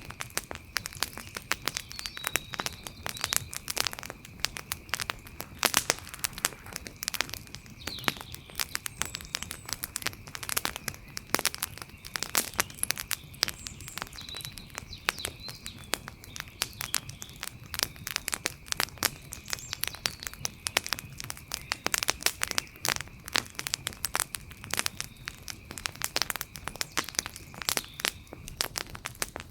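Wood fire crackling steadily, with dense irregular pops and snaps. A steady high-pitched tone and faint high chirps sit underneath.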